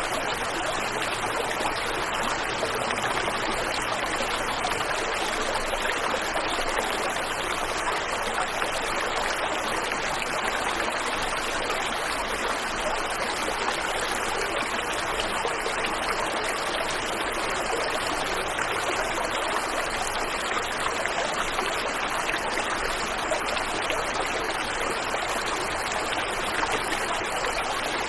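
Waterfall and river water rushing steadily, an even wash of sound with little deep rumble.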